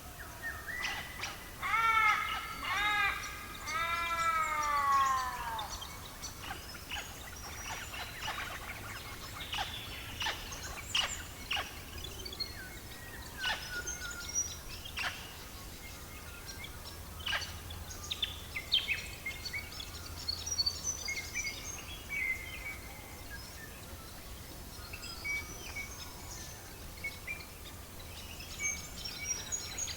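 Birdsong over a crackling fire. Near the start a bird gives four arched calls about a second apart, then sharp crackles and pops are scattered through the middle, and faint high chirps come near the end.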